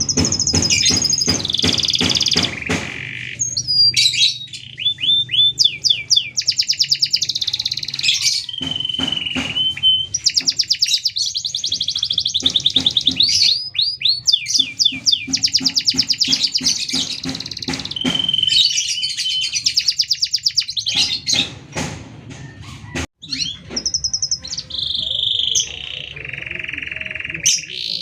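Domestic canary singing a long, continuous song of fast trills and rapidly repeated notes, phrase after phrase with only very short pauses, the bird in full song. There is one brief break about two-thirds of the way through.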